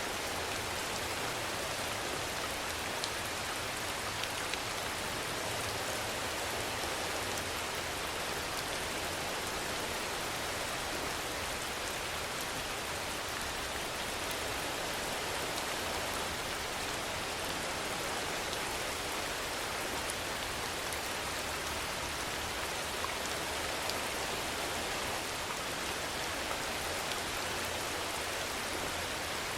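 Steady rainfall: an even, unchanging hiss with a few faint drop ticks.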